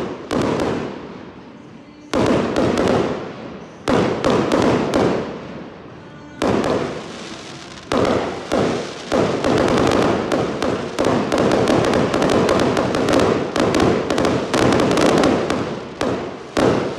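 Fireworks going off: loud single bangs every two seconds or so, each trailing off in crackle, then from about eight seconds in a dense continuous barrage of bangs and crackling.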